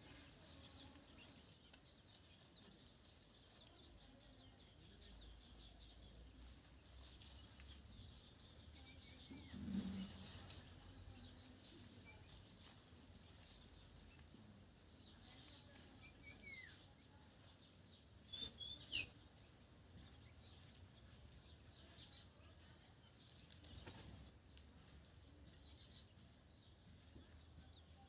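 Quiet outdoor ambience: faint hiss and a steady thin high tone, with a few short, falling bird chirps now and then and a soft low thump about ten seconds in.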